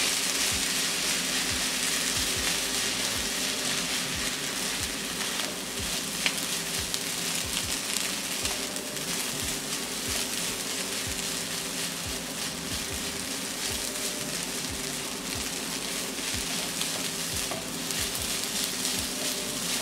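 Butter fried rice sizzling in a non-stick wok as it is stirred and tossed with a spatula: a steady frying hiss with many light scraping ticks from the spatula.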